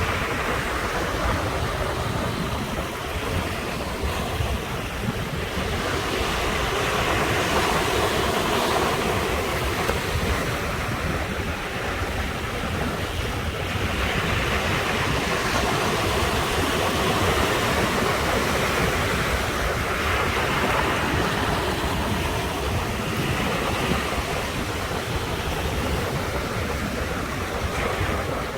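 Sea waves surging and breaking on the shore in a continuous wash, swelling and easing every several seconds.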